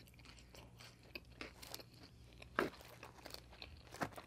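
Close-miked chewing of a mouthful of pizza: soft crunches of crust and wet mouth clicks. There is a louder click about two and a half seconds in and another near the end.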